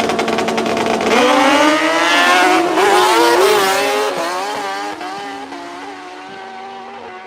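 Drag-racing motorcycles, one a 2007 Suzuki GSX-R, launching about a second in and accelerating hard, the engine pitch climbing and dropping back with each gear shift. The sound fades steadily as the bikes run away down the track.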